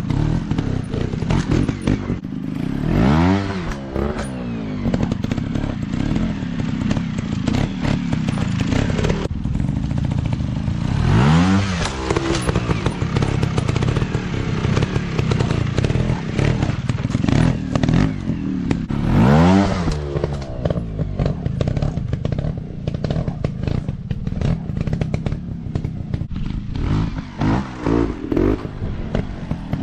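Off-road motorcycle engines running hard, revving up sharply and dropping back three times at roughly eight-second intervals, with smaller revs near the end. Rattling and clattering run under the engine sound throughout.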